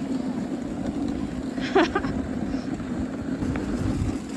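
Dog sled runners rumbling steadily over a packed, rutted snow trail while the team runs. A short high cry cuts in briefly about two seconds in.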